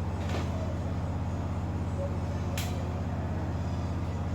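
A machine running with a steady low hum, with two short hisses, one just after the start and one about two and a half seconds in.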